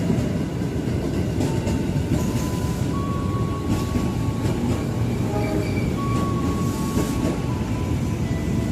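JR 205 series electric commuter train rolling through a curve: a steady rumble of wheels on rail with a few rail-joint clacks. Thin wheel-flange squeals from the curve come in about three seconds in and again about six seconds in.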